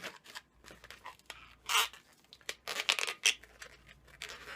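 Inflated latex twisting balloons being handled and knotted together: rubber rubbing and stretching against rubber in short scratchy, crinkly bursts, the loudest just under two seconds in and a cluster around three seconds in.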